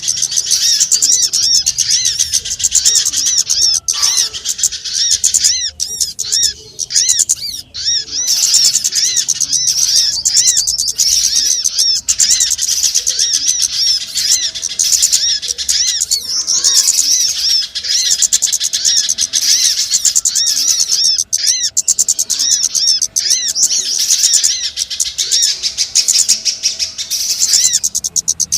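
Many small songbirds chirping at once in a dense, unbroken chatter of quick, high notes: a bird-lure recording meant to draw in small birds.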